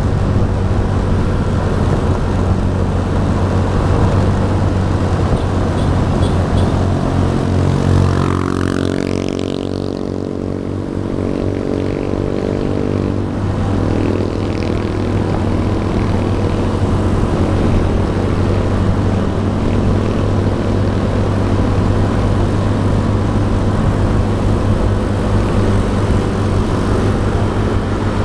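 Motorcycle riding through traffic: the engine runs steadily under wind noise on the microphone. About eight seconds in, a pitched engine note drops, and the sound eases slightly for a few seconds before it levels out again.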